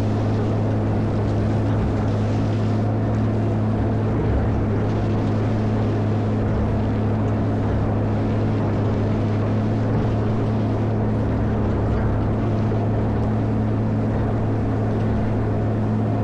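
Cat 140M motor grader's diesel engine running steadily at constant speed, a low even hum.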